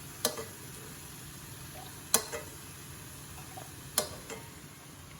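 Minced beef sizzling softly in a frying pan while the surplus fat is taken out, with three sharp clinks of a utensil against the pan about two seconds apart.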